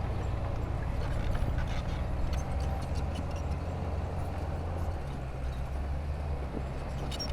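Heavy diesel earthmoving machinery running steadily, its engine note shifting slightly about five seconds in, with scattered clicks and knocks on top.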